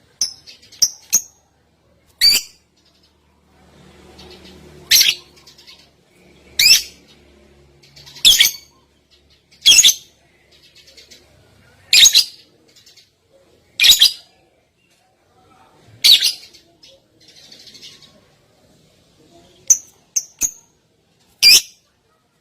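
A songbird's masteran tutor recording: short, sharp, high-pitched calls repeated about every two seconds, with faint softer twittering in between.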